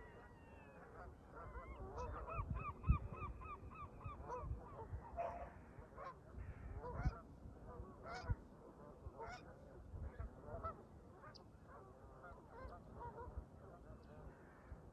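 A flock of Canada geese honking, a quick run of calls for the first few seconds, then scattered honks. Wind rumbles on the microphone underneath.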